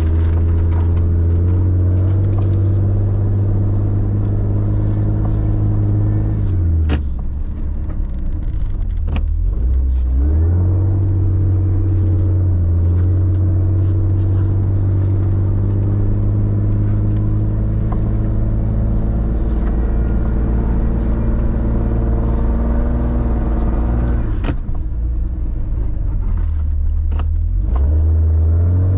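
4x4 engine running under load as the vehicle works through deep snow, its pitch dropping and climbing back twice. A few sharp knocks are heard, about seven, nine and twenty-four seconds in.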